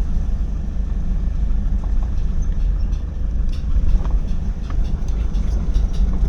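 Vehicle moving slowly over a rough, holed road: a steady low rumble with scattered short knocks and rattles.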